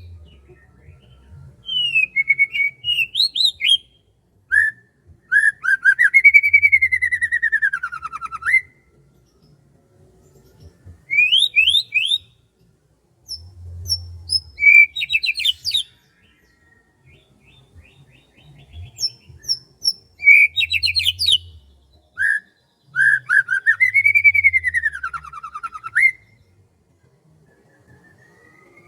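A bird singing in separate phrases of quick chirps and whistles with pauses between, twice giving a long whistle that rises and then falls.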